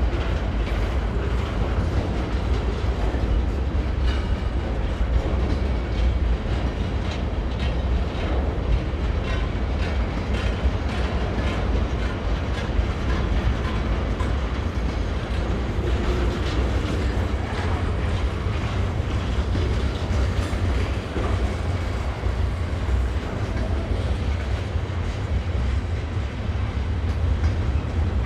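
A train passing steadily, a continuous low rumble with faint clicking of wheels on the rails.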